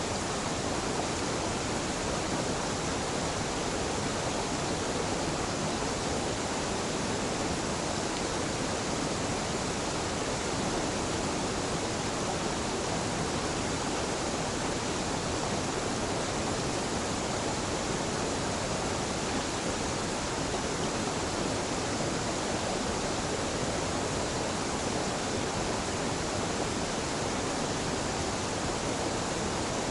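Gentle mountain waterfall where a stream joins the river, its water falling in a steady, unbroken rush.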